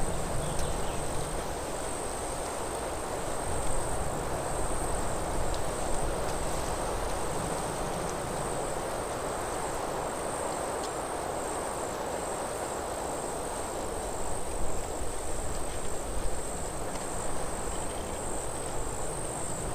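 Forest ambience: a steady, high-pitched insect trill, like crickets, over the even rush of wind through the trees, which swells now and then.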